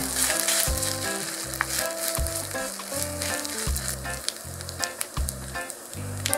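Fried rice sizzling in a hot nonstick frying pan while a wooden spoon stirs it, with scattered light scrapes of the spoon. Background music with a repeating bass line plays along.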